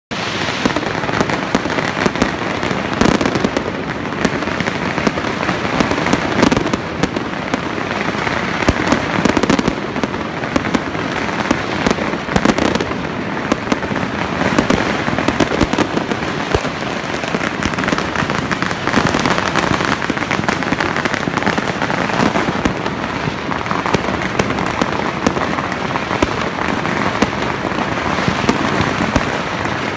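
Many fireworks going off at once: a dense, unbroken crackle of bangs and pops that keeps up with no pause.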